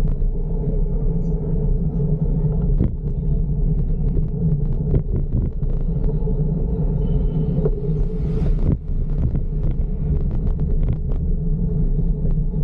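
Steady low rumble of wind and road noise on the microphone of a fixed-gear bike being ridden, with scattered light clicks and a short hiss about eight seconds in.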